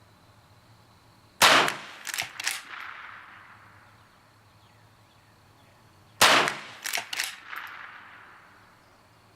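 Two shots from a Henry .22 lever-action rifle, about five seconds apart, each ringing out for about a second. Each shot is followed by two or three quick sharp clacks, the lever being worked to chamber the next round.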